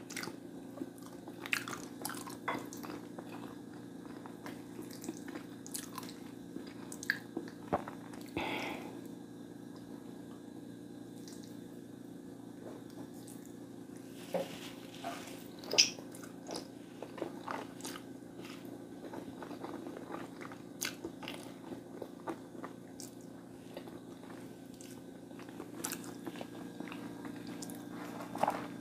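Close-miked eating: chewing and biting into food, with scattered crunches and short wet clicks, over a steady low hum.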